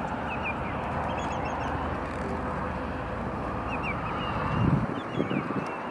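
Outdoor field sound: a steady hiss and low rumble, with short, high bird chirps scattered through it and a brief low rumble swelling up about four and a half seconds in.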